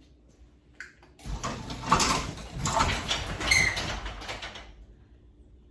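Electric garage door opener running and the door rattling as it lifts only a little, because a lift cable has come loose from its drum. It starts about a second in, runs for about three and a half seconds and stops before the end.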